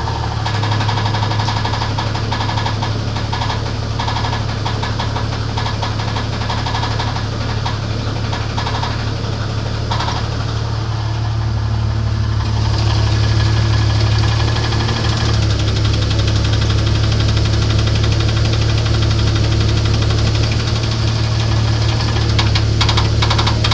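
1994 Jeep Grand Cherokee's 4.0-litre straight-six engine running with a steady, rhythmic knock, the engine knock the owner is recording. It gets slightly louder about halfway through.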